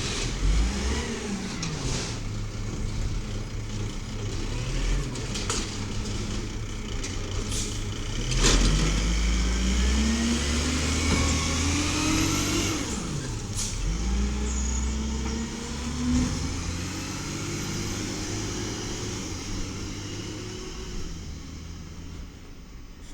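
WhiteGMC diesel garbage truck engine revving up and falling back several times, with faint high whines above it. A loud bang comes about eight seconds in, with a few smaller knocks around it.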